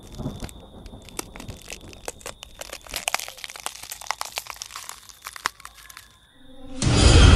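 A run of irregular crackles and snaps, dense in the middle and thinning out about five and a half seconds in, over a faint steady high tone. Loud music cuts in just before the end.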